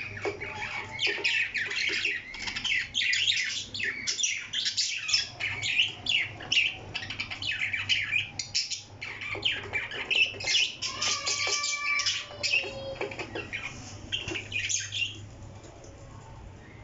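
Parrot squawking and chattering in a dense stream of short, sharp, high calls that stop about fifteen seconds in.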